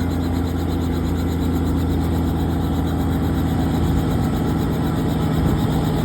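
Helicopter engine and rotor running with a steady, unchanging low drone.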